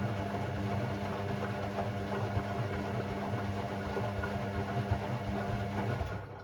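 Hoover Sportswear 1300 washing machine running with a steady mechanical hum, a motor turning through its Delicate 15 cycle, then stopping about six seconds in.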